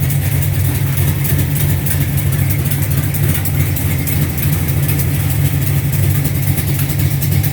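Heavily cammed 440 V8 of a 1969 Dodge Charger R/T idling steadily; the owner says it has a small exhaust leak, needs header gaskets and a tune-up.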